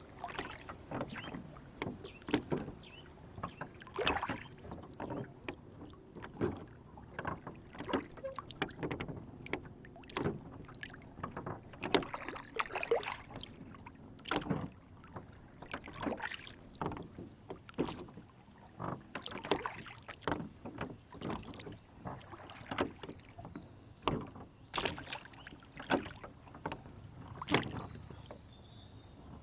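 Lake water lapping and sloshing against a small rowboat, with frequent irregular small splashes and light knocks.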